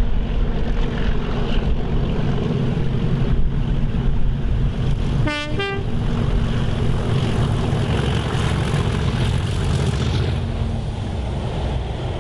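Train running with a steady low rumble; about five seconds in its horn sounds two short notes, the second higher. The rumble fades near the end.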